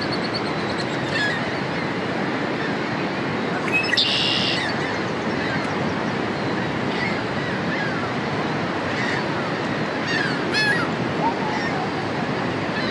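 Red-winged blackbird singing its buzzy trilled song once, about four seconds in, with several short chirping calls scattered through, over a steady rushing background noise.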